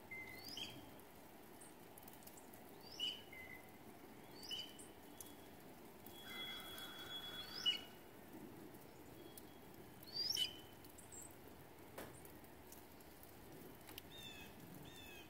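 Songbirds calling in winter woods: short whistled notes that sweep up and down, repeated every couple of seconds, with a longer held whistle about halfway through and a quick run of short falling notes near the end. The calls are faint over a low outdoor hiss.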